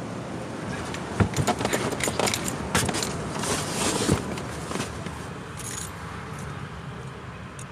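Handling noise: a quick run of sharp clicks and metallic clinks with a brief rustle, over a steady background hum, dying down after about five seconds.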